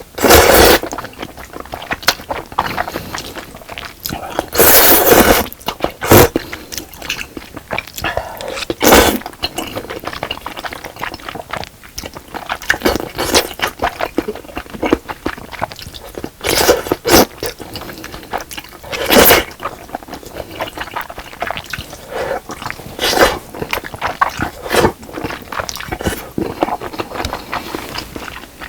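Close-miked eating sounds: chewing fish cake and rice cake from a spicy fish cake soup, with a series of short eating noises and several louder bursts spread through.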